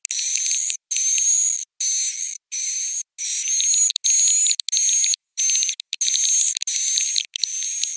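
Swiftlet roosting-call recording (suara inap), a lure played in swiftlet houses to make the birds settle and roost: rapid high-pitched twittering in bursts of about half a second to a second, separated by brief silent gaps.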